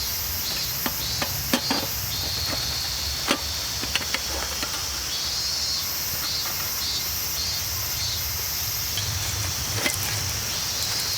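Insects chirring in a steady high-pitched drone that pulses on and off, with a few scattered sharp clicks and knocks.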